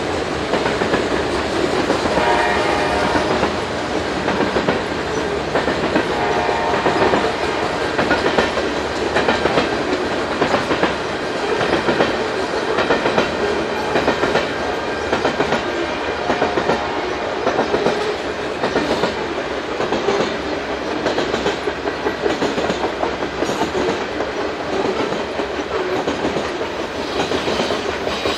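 Canadian Pacific grain train's loaded covered hopper cars rolling past in a steady rumble, with the clickety-clack of wheels over the rails. Two brief ringing tones rise above it, about two seconds in and again about six seconds in.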